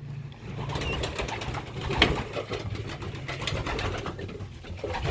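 Young racing pigeons feeding: low cooing under many quick taps and clicks of birds pecking at feed, with one sharper knock about two seconds in.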